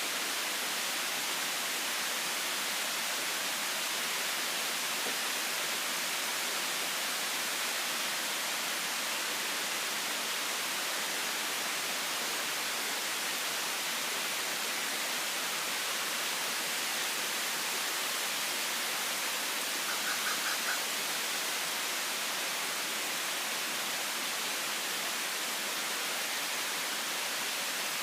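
Heavy rain falling steadily, an even hiss. About two-thirds of the way through, a brief run of five or so quick faint chirps.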